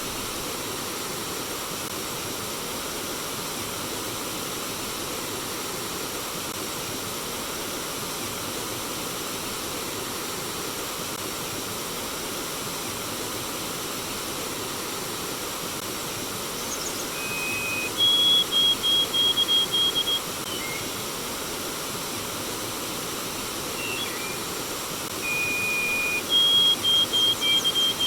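Steady rush of flowing stream water. A bird sings twice in the second half, each phrase a held whistle followed by a quick run of higher repeated notes, about four a second.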